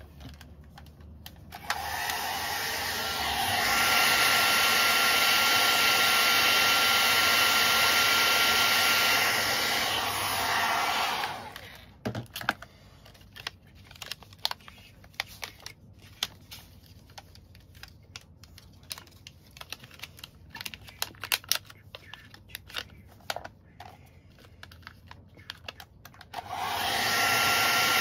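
A small electric motor running steadily with a whine, stopping about 11 seconds in. Scattered light clicks and knocks of handling follow, and the motor starts again near the end.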